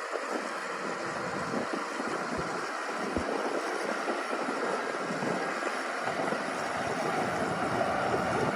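Shantui DH17-C2 bulldozer's diesel engine running steadily as the machine works, getting a little louder in the last couple of seconds.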